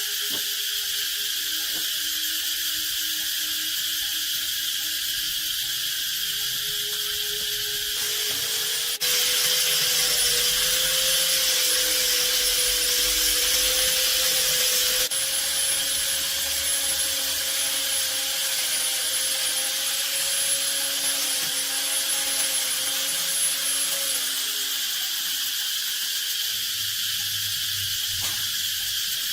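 A small electric motor starts up and runs with a steady whine for about sixteen seconds, then spins down. High insect chirring goes on throughout.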